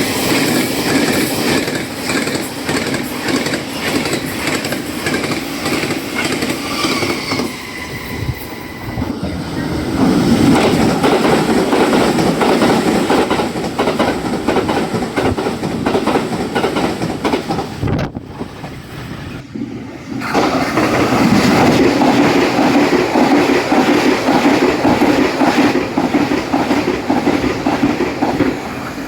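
Taiwan Railway trains passing at high speed, wheels clattering over fishplate rail joints in a rapid clickety-clack. One pass gives way abruptly to another twice, near a third of the way through and again about two-thirds of the way through.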